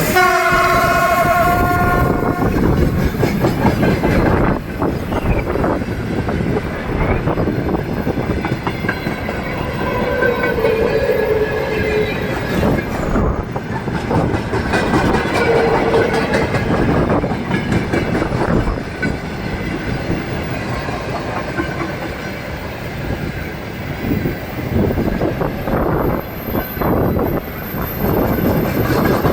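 Freight train with a VL80S electric locomotive passing: a horn sounds, cutting off about two and a half seconds in, then the tank wagons roll past with the steady rumble and clickety-clack of wheels over the rail joints.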